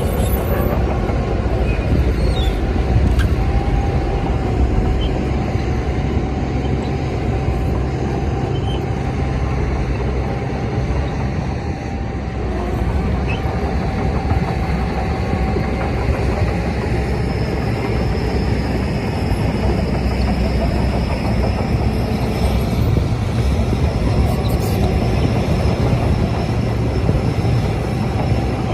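Crawler bulldozer working: its diesel engine runs steadily under load, with steady metallic whining tones from the machine over it.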